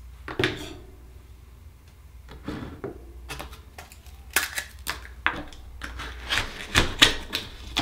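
Irregular sharp clicks, taps and scrapes of akoya oyster shells and small tools being handled, sparse at first and coming thick and fast in the second half.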